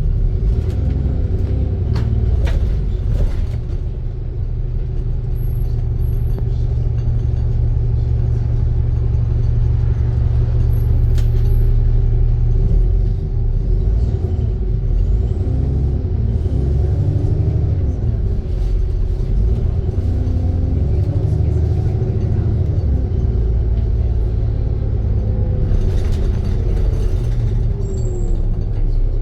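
ADL Trident II Enviro 400 double-decker bus running, a steady low rumble from the engine and drivetrain, with whining tones rising and falling as it speeds up and slows. A few sharp clicks and a short hiss of air come through over the engine.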